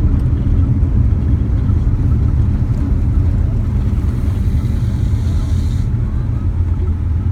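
Boeing 787 Dreamliner cabin noise during landing: a loud, steady low rumble. A brighter hiss joins about four seconds in and cuts off suddenly about two seconds later.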